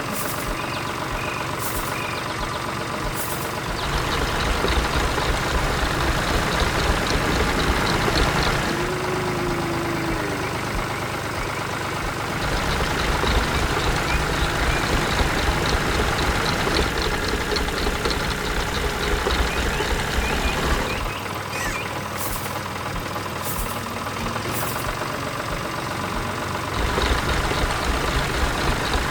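Heavy farm machine's diesel engine running, with a low, even throb that grows louder and rougher in three stretches: a few seconds in, through the middle, and near the end.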